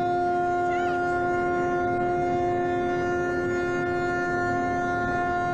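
A large cruise ship's horn blowing one long, steady blast.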